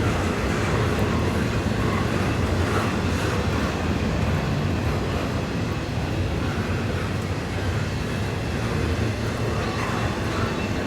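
Norfolk Southern intermodal freight train rolling past, a steady rumble with no horn.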